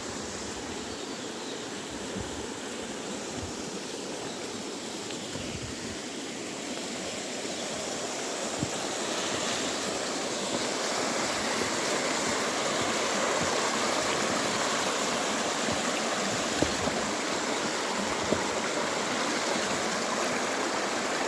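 Running water of a stream or small waterfall, a steady rushing that grows louder over the first half and then holds, with a few faint knocks.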